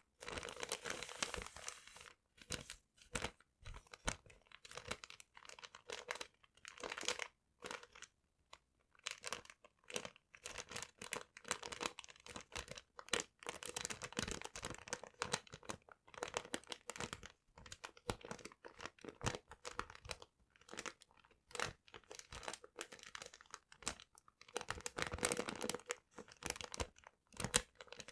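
Paper handled close to the microphone: crumpled and crinkled in irregular, crackling bursts with short pauses between them.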